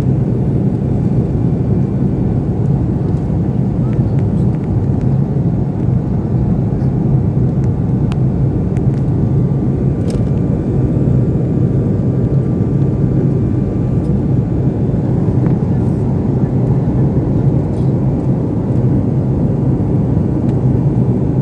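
Steady, unbroken low rumble of a vehicle in motion, with a faint thin whine above it.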